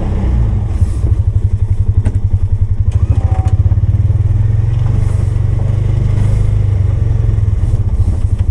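Polaris 570's single-cylinder engine running with an even pulsing throb, with a few knocks and clatters in the first few seconds.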